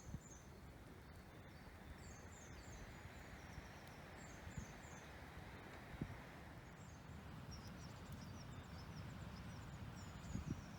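A songbird singing faintly, short high phrases of three or four quick notes repeated every two seconds or so, over a steady low background rush of woodland ambience.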